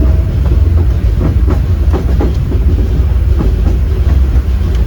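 Disneyland Railroad train rolling along its track: a steady heavy rumble of the cars' wheels on the rails, with a run of sharp clacks over rail joints between about one and two and a half seconds in and a few more later.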